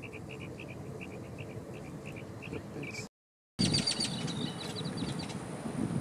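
A run of short, high chirps a few times a second over steady low background noise. After a brief cut near the middle, rapid high clicking notes and a short falling whistle from a northern mockingbird.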